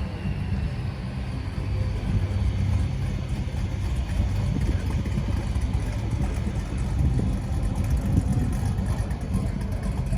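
1967 Chevrolet El Camino's engine running with a steady low rumble.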